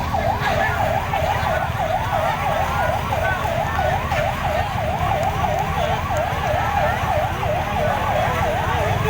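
More than one emergency-vehicle siren sounding together in a fast yelp, each sweeping up and down in pitch about three times a second, over a steady low rumble.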